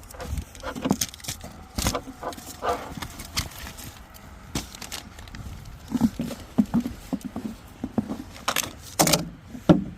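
Rummaging through food and gear: irregular rustling, clinking and knocks from objects being handled, with a short hissing burst about nine seconds in.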